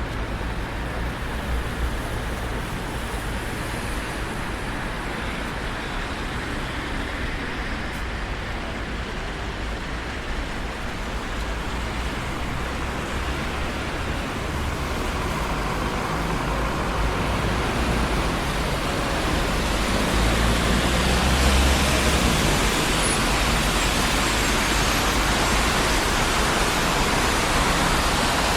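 Traffic on a busy city street: a continuous rumble and tyre noise of passing cars that grows louder in the second half, as heavier or closer traffic goes by.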